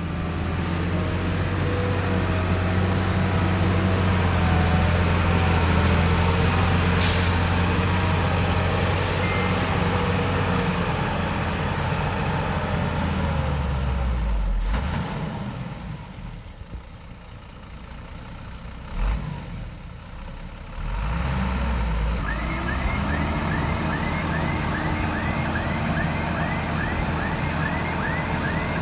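Heavy diesel earthmoving equipment running at a work site. A brief sharp hiss of air sounds about a quarter of the way in, and the engine drops away about halfway through. It then picks up again with rising pitch, joined near the end by a repeated short chirp about twice a second.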